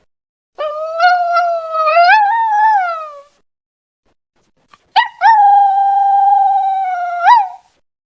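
A dog howling: two long, high howls with gaps of silence, each rising in pitch near its end.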